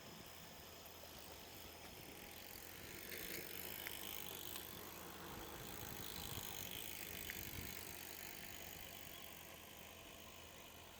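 A vehicle passing by: faint tyre noise builds, peaks in the middle and fades away, with two light clicks along the way.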